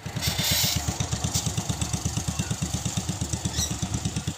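Small petrol engine of a mini tractor running steadily with an even low chugging, about ten beats a second. A short hiss comes in the first half second.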